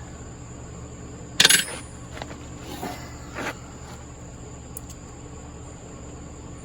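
Wrench clinking against metal while working at a tight brass oil pressure sensor and its 45° fitting: one loud sharp clank about a second and a half in, then a few lighter clicks, over a steady background hum.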